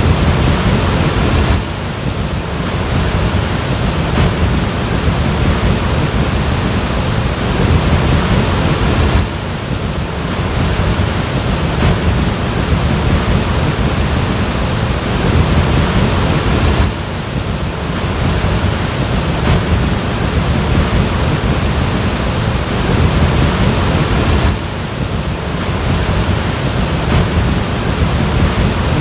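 Loud, steady rushing of water, dipping briefly about every seven and a half seconds.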